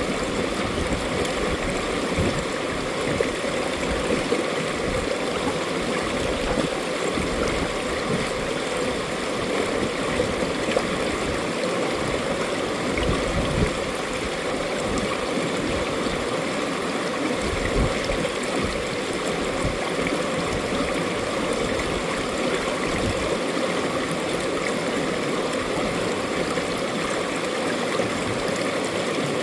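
Mountain valley stream flowing, a steady, unbroken rush and burble of running water.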